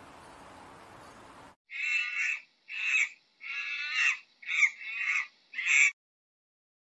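A faint hiss, then from about a second and a half in, six loud animal calls in quick succession, each less than a second long.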